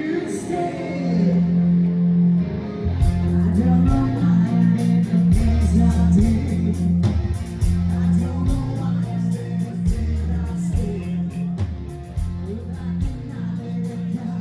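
Rock-style band music with singing over guitar and a steady bass line; drums come in about three seconds in and keep a regular beat.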